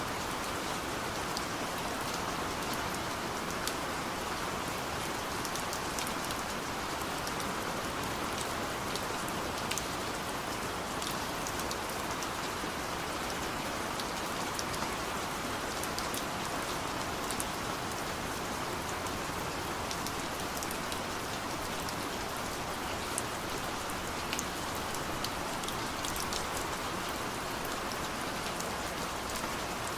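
Steady rain drumming on a car's roof and windows, heard from inside the car: a constant hiss with many sharp ticks of single drops striking.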